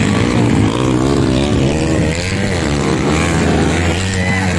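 Dirt bike engines running, their pitch rising and falling as they rev, over a steady low engine note.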